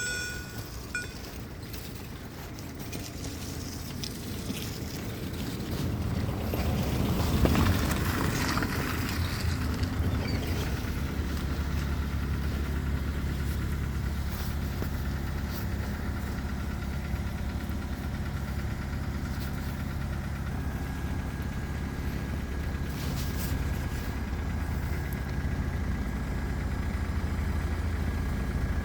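Train passing, its noise building to a peak about seven seconds in and then settling into a steady engine hum with a low drone.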